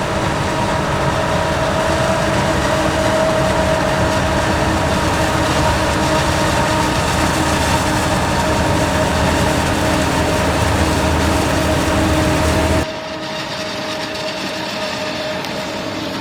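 Heavy farm machinery running loud and steady, with a constant whine over a rumbling drone. About 13 seconds in the sound drops suddenly to a quieter level of the same kind of machine noise.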